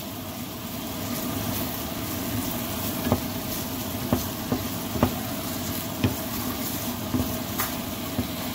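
Onion rings, garlic and ginger sizzling steadily as they sauté in melted butter in a frying pan. A wooden spatula stirs them, with short knocks against the pan about once a second from about three seconds in.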